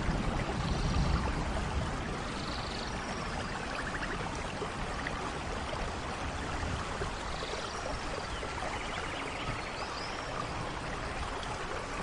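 Steady rainfall in a rainforest, an even hiss, with a roll of thunder fading out in the first second or so. Faint short high-pitched animal calls come through the rain now and then.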